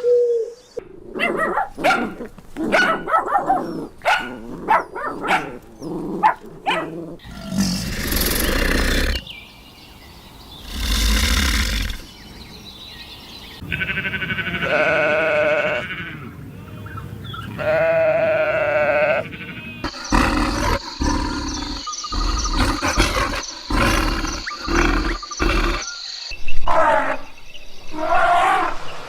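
A string of different animal calls cut one after another: a quick run of short calls, two long rough roar-like calls, wavering bleats, and a stretch of short repeated calls over a steady high tone.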